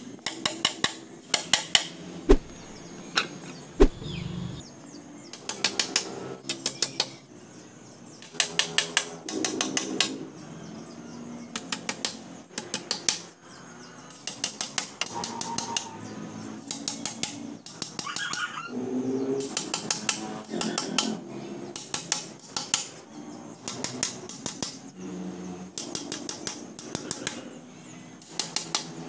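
Hammer driving small nails into a wooden and bamboo frame, in quick runs of light taps, several taps per run, repeated throughout.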